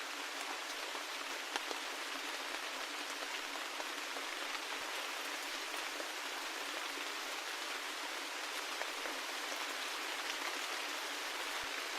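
Steady rain falling, an even hiss with scattered individual drops ticking through it and no low rumble.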